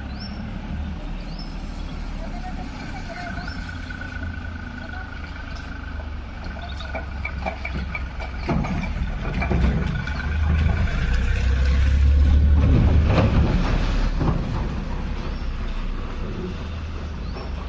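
Steady low rumble, louder in the middle, with a short rising bird chirp repeating about once a second near the start and again near the end.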